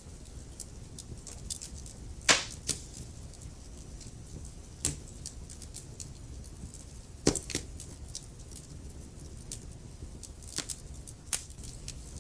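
Wood fire burning in a fireplace: logs crackling with scattered small ticks and a few sharp, louder pops, over a low steady rumble of the flames.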